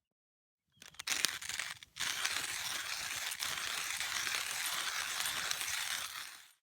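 Wood fire crackling: a scatter of sharp crackles, then a dense, steady crackle and hiss that cuts off abruptly near the end.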